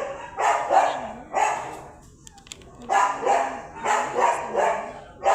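A dog barking repeatedly in two runs of short barks, with a pause of about a second between them.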